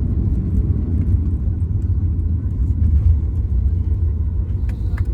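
Boeing 737 MAX 8 taxiing after landing, heard from inside the cabin: a steady low rumble of the engines at idle and the wheels rolling. A quick series of sharp clicks starts near the end.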